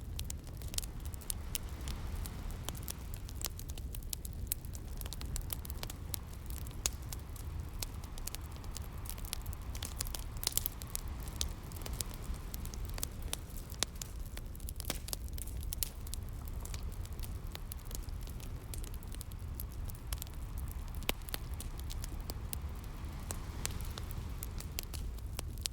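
Wood fire crackling with frequent sharp pops, over a steady low rumble of sea waves.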